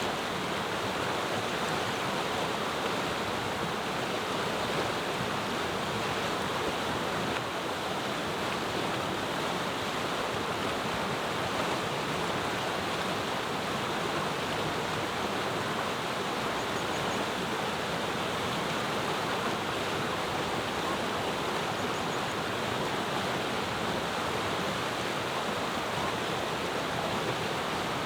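Mountain river flowing, a steady, even rushing of water over stones.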